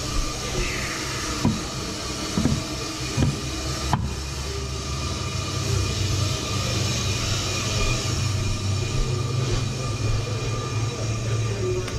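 Ammco 4000 brake lathe running, with a steady hum and a hiss from the cut across a brake rotor under the auto feed. A few sharp knocks come in the first few seconds.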